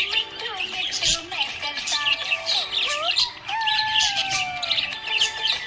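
Small pet parrots chirping rapidly and continuously, many overlapping high chirps.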